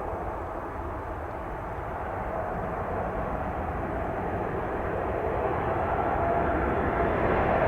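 Jet airliner engines, a steady rushing noise that slowly grows louder as the aircraft comes closer. A faint whine comes in near the end.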